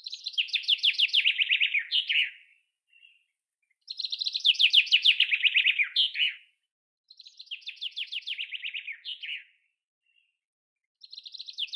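A songbird singing the same song over and over: a fast run of notes falling in pitch, ending in a short, higher flourish. Three full songs and the start of a fourth.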